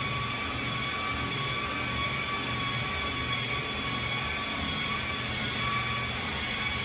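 Steady mechanical drone: a low rumble with a few steady high whines over it, unchanging throughout.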